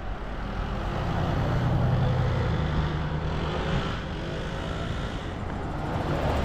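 Diesel engine running steadily, its low note swelling a little about a second in and then easing off.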